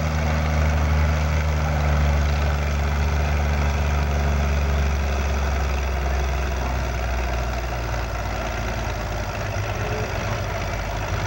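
Antique farm tractor engine running with a deep, steady drone. The drone eases and weakens after about five seconds.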